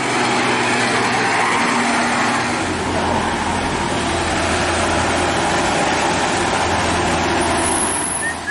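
Dump truck's diesel engine running hard at full throttle up a steep climb, a loud, steady labouring drone under heavy rushing noise.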